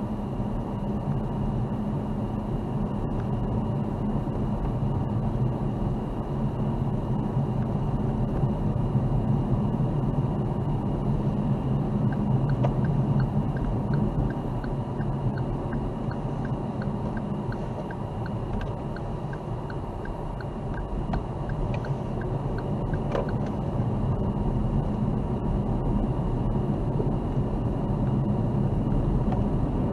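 A car driving, with a steady low rumble of engine and tyres on the road. Through the middle stretch a faint regular ticking comes at about two a second.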